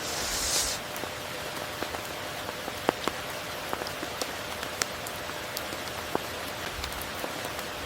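Steady rain falling, with scattered louder drops ticking through it and a brief, louder high hiss lasting well under a second at the start.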